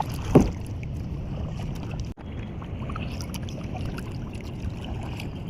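Steady low rush of water and wind on the microphone from a kayak out on the water, with one short loud bump just after the start.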